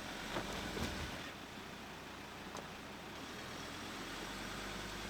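Ranger 4x4's engine running low and steady while crawling over river rocks, with a few short knocks in the first few seconds.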